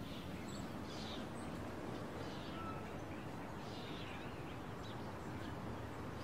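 Quiet park ambience: a steady low hiss with faint, scattered bird chirps.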